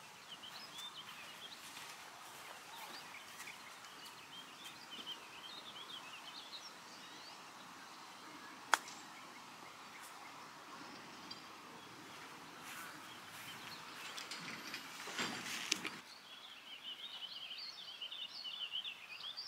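Small birds chirping and twittering over quiet outdoor background noise. A single sharp click sounds about nine seconds in, and a short, louder rush of noise follows around fifteen seconds in.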